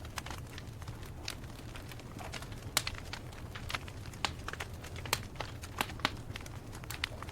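Wood campfire crackling: irregular sharp pops and snaps, a few louder ones, over a steady low rumble.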